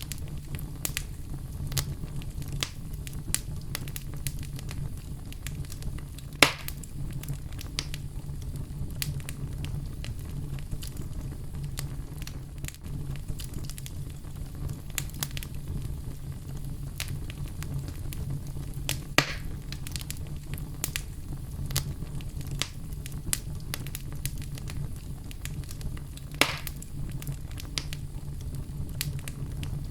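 Oak wood fire burning in a fireplace: a steady low rumble of flames under frequent small crackles, with three louder pops spread through.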